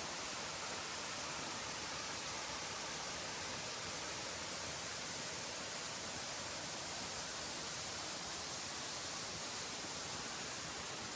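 Waterfall tumbling into a pool: a steady, even rush of falling water.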